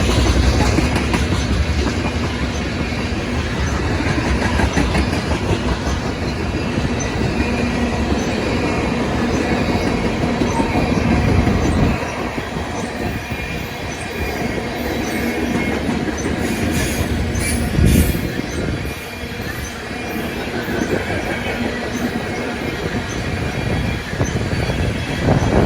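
Freight train rolling past, a steady rumble of cars on the rails, with one short louder knock about eighteen seconds in.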